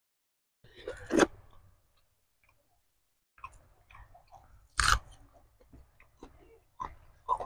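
Close-miked chewing and biting on goat head meat, with two loud crunches, one about a second in and one about five seconds in.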